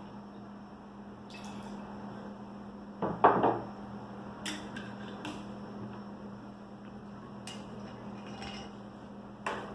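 Vodka being measured out and poured into a cocktail glass: a few glass clinks and taps, the loudest about three seconds in, over the faint trickle of liquid and a low steady hum.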